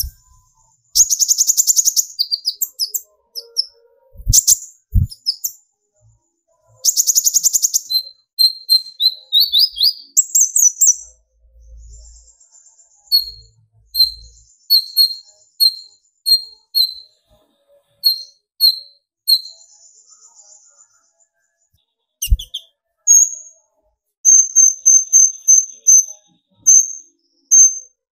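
Kolibri ninja sunbird singing: fast, high-pitched trilled bursts, then long strings of short sharp chirps, ending in a quick run of repeated notes. A couple of brief low knocks come about five seconds in and near the end.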